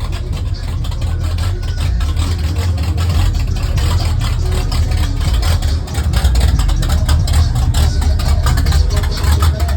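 A pickup truck engine idling close by, a loud, steady low rumble with a rapid pulse.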